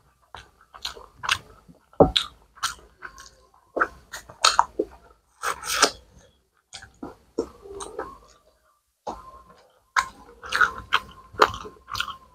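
Close-miked wet chewing and lip-smacking of a person eating rice and curry with meat by hand. It comes as quick, irregular smacks, with a short pause a little past the middle.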